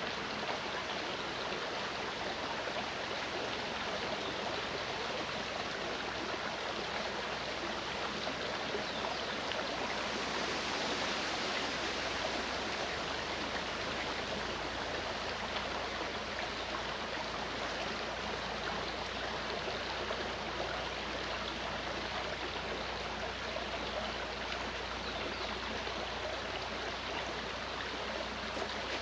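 Mountain stream flowing steadily, an even rush of water with light gurgling.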